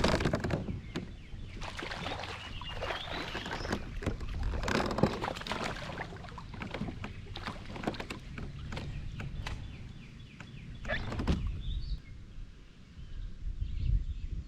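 Irregular knocks and clatter with water sloshing around a plastic kayak, easing off near the end.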